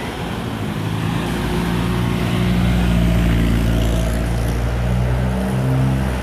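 Motor vehicle engine running close by, growing louder over the first two seconds and then holding a steady note. Its pitch steps up about five and a half seconds in, then the sound cuts off abruptly.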